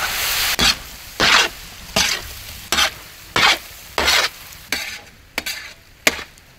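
Prawns frying in a pan, stirred in regular strokes about every 0.7 s, each stroke bringing a short surge of sizzle over a steady frying hiss that fades a little near the end.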